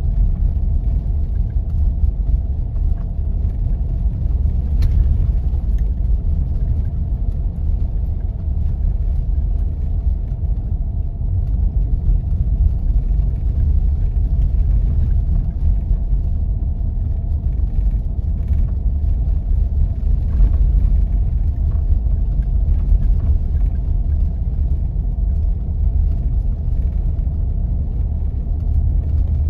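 A Jeep driving on snowy back roads: a steady low rumble of engine and tyres, with a faint steady whine above it.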